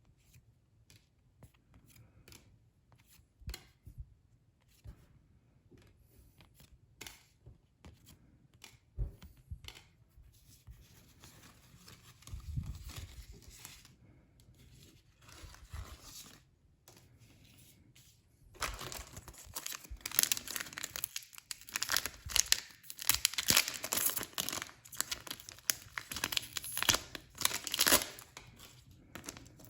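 Sparse light taps and rustles of handled packaging, then, about two-thirds of the way in, loud continuous crinkling and tearing as a Pokémon booster pack's foil wrapper is ripped open.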